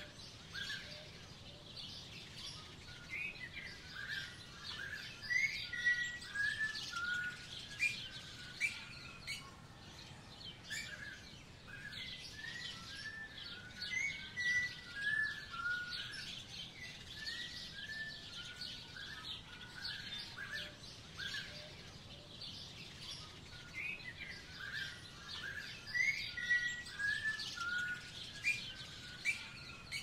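Songbirds singing: a song phrase of quick notes stepping down in pitch comes three times, about ten seconds apart, over a steady chatter of high chirps.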